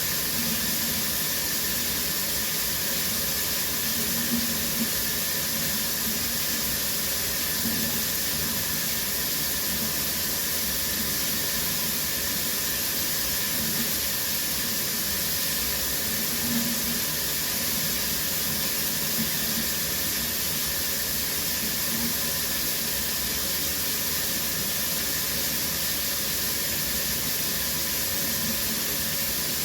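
Shower running: a steady hiss of falling water spray, with faint splashes now and then.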